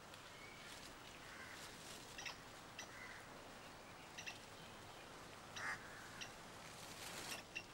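Faint outdoor background hiss with a few short, sharp bird chirps scattered through it.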